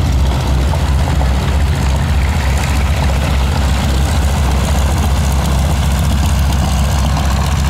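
Propeller aircraft engine running steadily at low power, a constant low drone.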